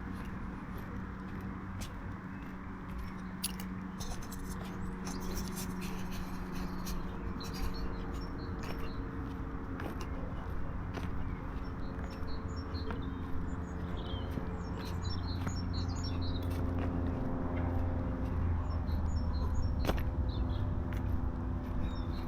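Small birds chirping here and there, more often in the second half, over a steady low rumble with a faint hum and a few sharp clicks.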